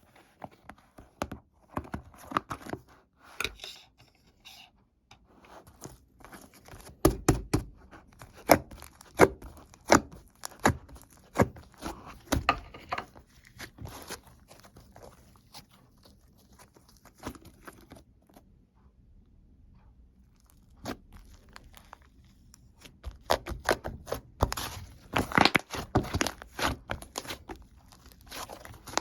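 Hands squishing, pressing and stretching slime, with crackling clicks and pops from trapped air. The crackling comes in two dense spells, about a quarter of the way in and again near the end, with quieter squishing between.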